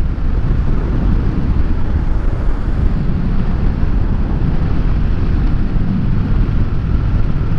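Wind rushing over the microphone over the low, steady rumble of a 2007 Harley-Davidson Dyna Wide Glide riding at road speed.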